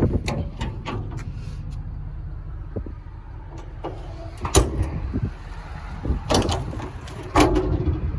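A series of sharp clunks and clicks from handling the truck's utility body and bed fittings: a quick cluster at the start, then single heavier knocks about four and a half, six and seven and a half seconds in. Under them runs a steady low rumble.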